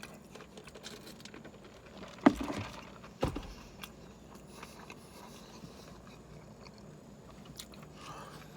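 Faint chewing and biting of a man eating a cheeseburger, with two sharp thumps about two and three seconds in.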